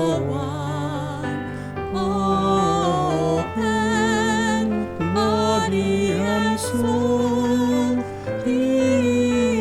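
Slow sung hymn: a voice singing with vibrato over sustained instrumental accompaniment, in phrases with short breaks between them.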